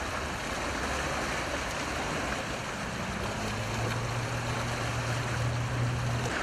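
Steady rush of the Düden Waterfall and its river running high with muddy floodwater after heavy rain. A low steady hum joins about halfway through and stops just before the end.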